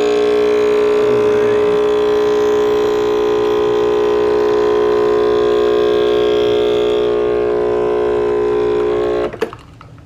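Breville Barista Express espresso machine's vibratory pump running steadily as it pushes water through the portafilter to pull a double shot. It cuts off suddenly about nine seconds in, with a short click as the shot ends.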